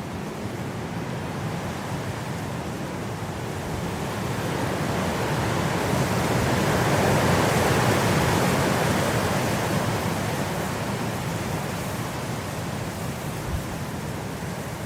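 Blizzard wind blowing as a steady rushing noise, one gust swelling to its loudest about halfway through and then dying down.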